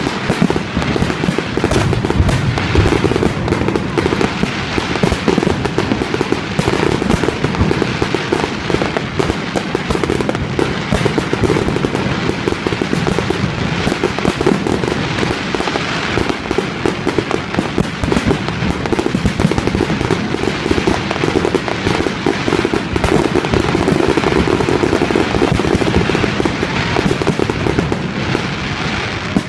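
Fireworks display in a dense, continuous barrage: rapid overlapping bangs and crackling with no break.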